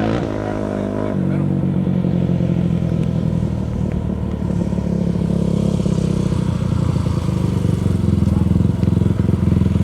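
A small off-road racing engine running at steady revs, with a change in pitch about a second in and getting louder over the second half.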